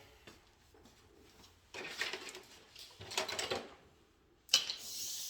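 Handling noises: rustling and clattering of work materials and tools being picked up and moved, in three short bursts, the last starting with a sharp knock.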